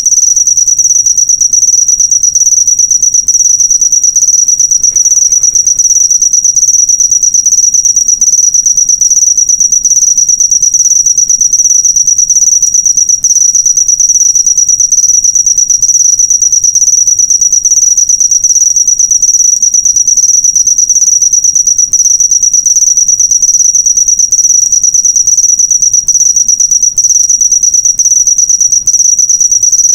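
A cricket trilling: a loud, steady, high-pitched trill made of rapid fine pulses, running on without a break.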